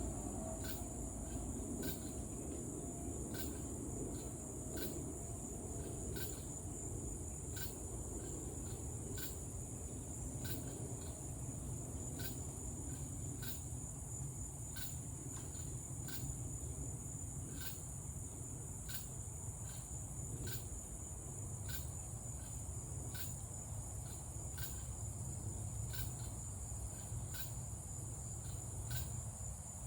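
Evening insect chorus of crickets and cicadas: a steady high-pitched trill, with a sharp chirp repeating at an even pace about every three-quarters of a second, over a low steady background rumble.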